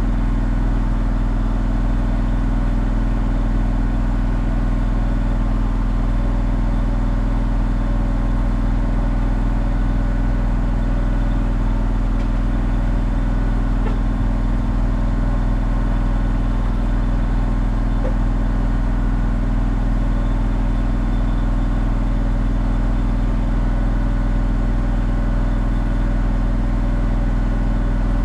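Engine of an engine-driven welder running steadily at one speed, with no change in pitch.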